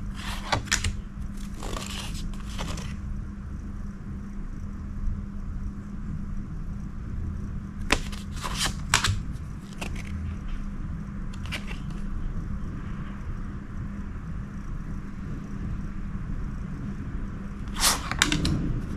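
Photo cards and their packaging being handled, scraping and rustling in three short spells: at the start, about halfway through and near the end, over a steady low hum.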